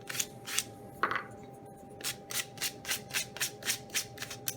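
Sandpaper rubbed back and forth by hand over a small wooden latch, in short strokes that start slow and then quicken to about four a second from about two seconds in.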